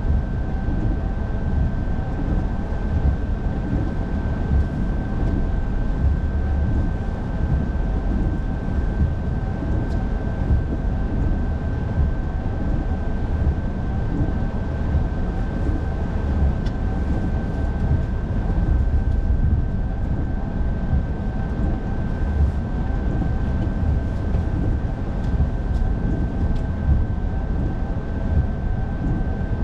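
Car cabin noise while driving: a steady low rumble of engine and road, with a thin steady whine over it.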